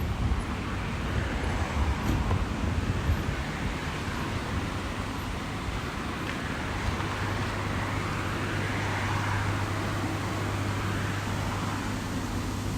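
A car passing on a wet street: tyre hiss swells and fades about eight to ten seconds in, over a steady low hum.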